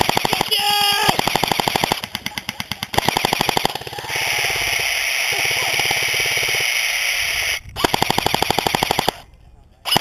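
Airsoft electric gun firing on full auto in repeated bursts, a rapid even clatter of about 15–20 shots a second. Several short bursts and one longer stretch in the middle, with the last burst cutting off about nine seconds in.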